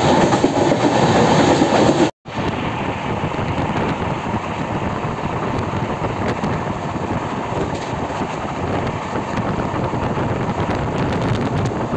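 Indian Railways express train running at speed: steady running noise of the coach on the rails. It breaks off for an instant about two seconds in, where the recording is cut.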